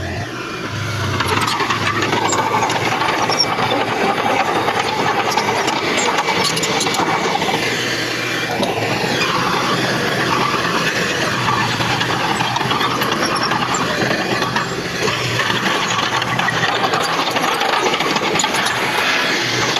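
Heavy earthmoving machinery at work: an engine running steadily under load, with scattered clanks. It grows louder about a second in.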